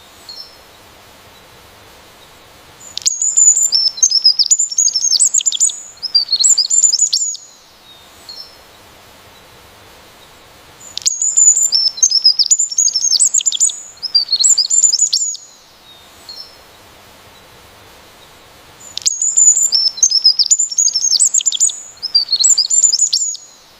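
A songbird singing in three bouts of rapid, high chirping phrases, each bout lasting about four seconds, with pauses of about four seconds between them.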